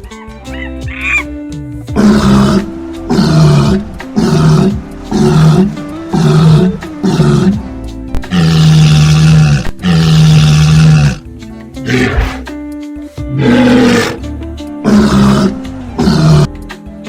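A big cat, lion or tiger, roaring again and again, about once a second, with two longer roars midway, over background music.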